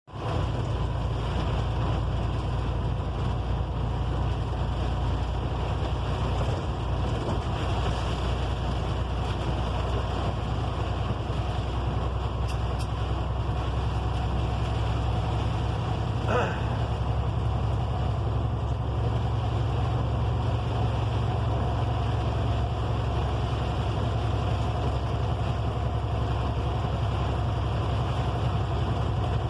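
Motor vehicle on the move: steady low engine rumble and road noise with no break.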